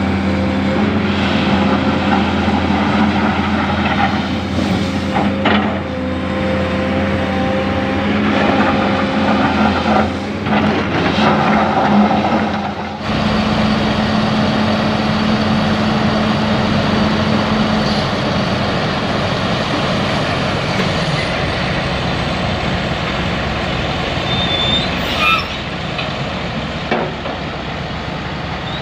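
Heavy diesel engines of an excavator and dump truck running steadily, with several metallic knocks in the first half. The sound changes abruptly to a different steady engine noise about halfway through.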